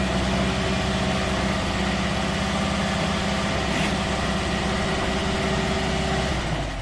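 Old air-cooled car engine running steadily after sitting unused for several years; its sound weakens near the end.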